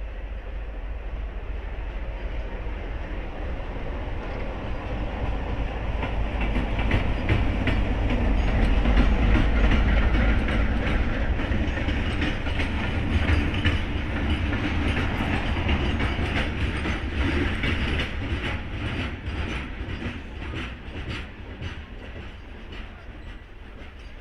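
WDM-3A ALCO diesel locomotive, with its V16 ALCO 251 engine, running light with no train: a heavy engine rumble that grows louder to its peak about 9 seconds in and then slowly fades. Its wheels click rapidly over rail joints through the middle.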